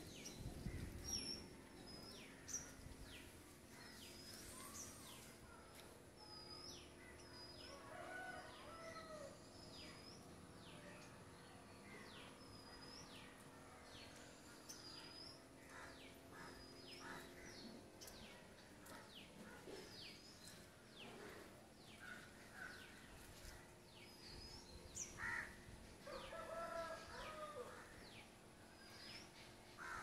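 Faint bird calls: short high chirps repeated about once a second, with a few lower, longer calls from other birds, the loudest near the end.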